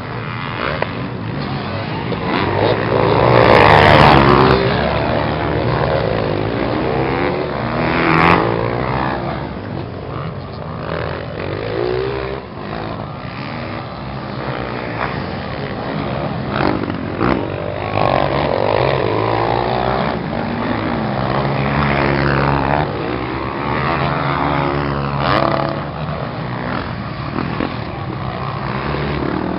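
Motocross motorcycle engines revving up and down as the bikes race past, the pitch climbing and dropping repeatedly, loudest about 4 seconds in.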